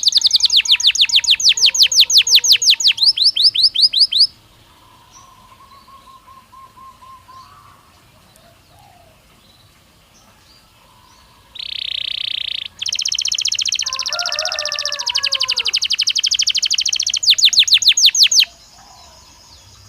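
Belgian canary singing: fast rolling trills of rapidly repeated high notes, then several seconds of quieter, scattered song. About twelve seconds in, a harsh buzzing note leads into a long, fast trill that ends in quicker sweeping notes and stops shortly before the end.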